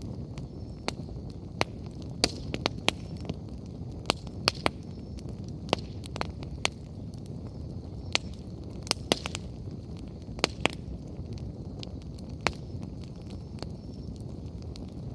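Wood fire burning: a steady low rush of flames with irregular sharp crackles and pops from the burning firewood.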